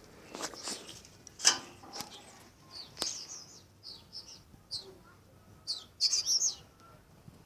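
Small birds chirping in short, high, repeated calls, busiest about six seconds in. A few sharp knocks sound in the first three seconds.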